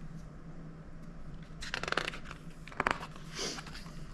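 Paper pages of a picture book being handled and turned: a rustle of crisp crackles about two seconds in, a second shorter crackle just after, and a faint steady hum beneath.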